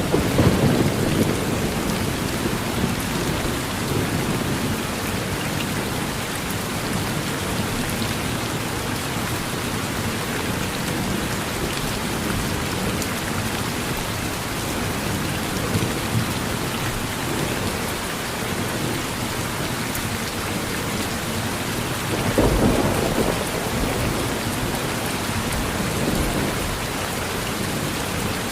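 Steady heavy rain falling on a porch, with thunder rumbling twice: once right at the start and again, louder, about three-quarters of the way through.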